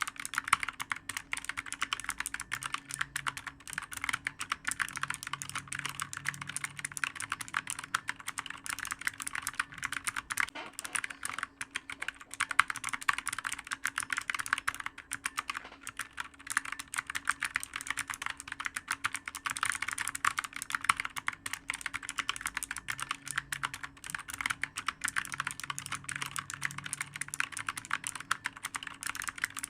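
Fast, continuous typing on a clicky computer keyboard, the key clicks following one another several times a second without a break.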